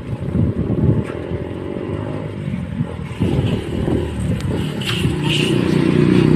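A vehicle or cart in motion: a low, uneven rumble with irregular rattling.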